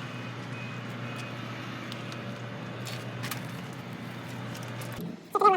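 Semi truck's diesel engine idling with a steady low hum, cutting off abruptly about five seconds in. A voice follows briefly near the end.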